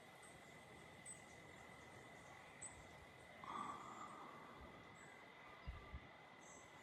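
Near silence: quiet open-air ambience with a few faint, brief high bird chirps and a faint steady high insect-like tone.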